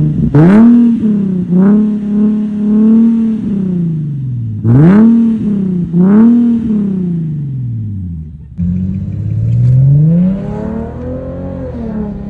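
Infiniti G37's 3.7-litre V6 through an ISR aftermarket exhaust, revving up and falling back several times. It drops sharply once near the two-thirds mark, then climbs again more slowly.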